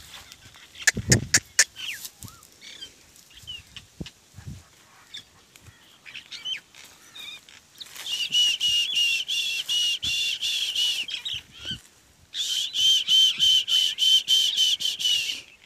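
A bird calling in two bouts of about three seconds each, a fast run of repeated high notes at about four a second, the second bout starting about twelve seconds in. A few sharp clicks come about a second in.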